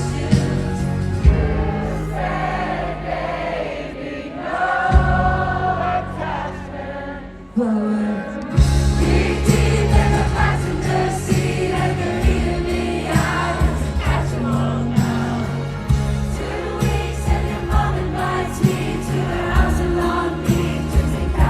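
Live pop music from a festival stage sound system: a singing voice over a band with heavy bass and drums. The music thins out and quietens about seven seconds in, then the full band comes back in with the beat about a second later.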